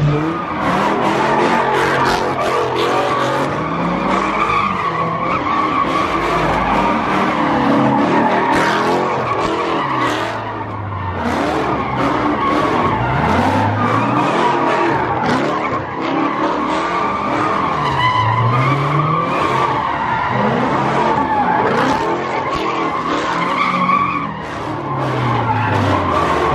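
Car tires squealing continuously against pavement while the engine revs climb and drop over and over.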